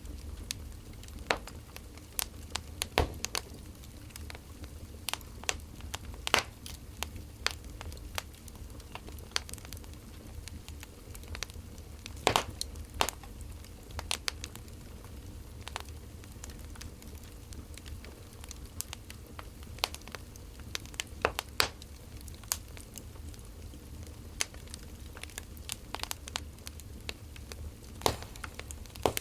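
Burning firewood crackling: irregular sharp pops and snaps, some louder than others, over a steady low rumble.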